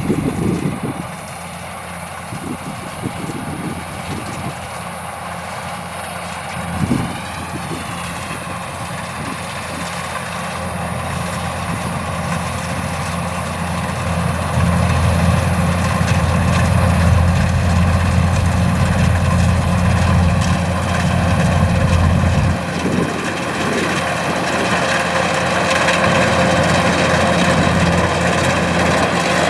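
Kubota DC105X rice combine harvester's diesel engine running steadily. It grows louder through the first half, is loudest in the middle, then drops back a little.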